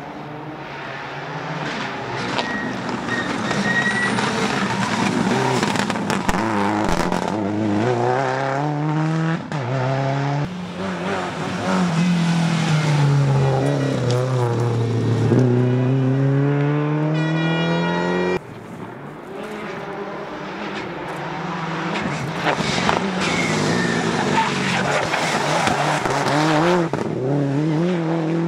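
Rally car engines revving hard on a special stage, the pitch climbing and falling with throttle and gear changes as a car passes. About eighteen seconds in, the sound drops off suddenly and another car's engine builds up.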